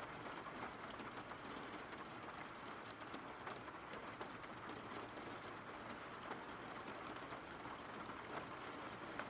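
Steady, faint rain falling, with soft scattered drop ticks.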